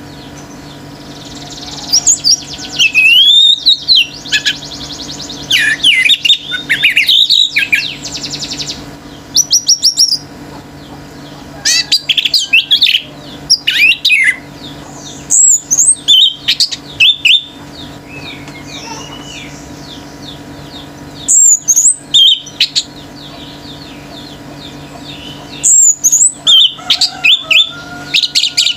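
Orange-headed thrush singing vigorously: loud bursts of varied, fast whistled phrases that slide up and down in pitch, with pauses of a second or more between them. A quick buzzy trill comes about eight seconds in.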